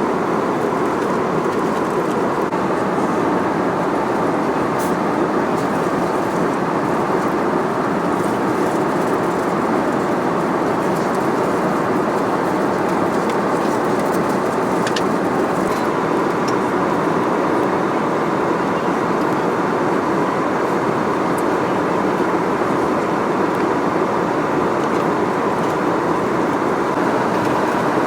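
Steady cabin noise of an Airbus A320-200 in flight: an even roar of airflow and engines, with a faint steady hum and a few faint clicks.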